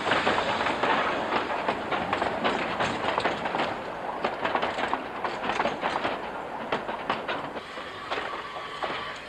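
Narrow-gauge steam train running along the track, its wheels clicking and knocking over the rail joints, slowly growing quieter.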